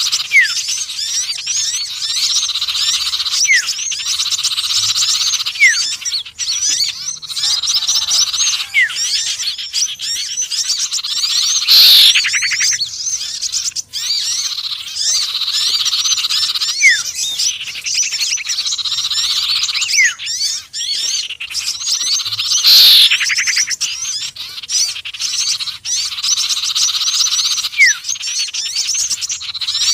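Bird-lure recording mixing the calls of small songbirds (sirtu, konin and sepah raja): dense, high chirping and twittering with short rising whistles every few seconds, and a louder falling call about every eleven seconds, the pattern repeating as a loop.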